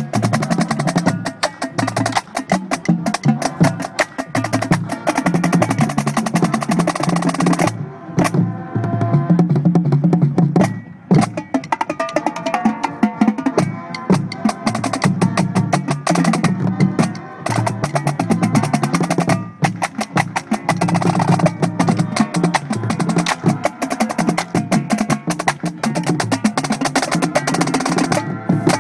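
High school marching drumline playing a fast percussion cadence: rapid snare strikes and rolls over pitched tenor and bass drum notes, with sharp stick clicks. The playing breaks off briefly a few times before driving on.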